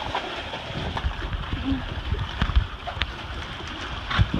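Wind buffeting the microphone, with a steady hiss and a few small knocks. A brief low tone sounds about a second and a half in.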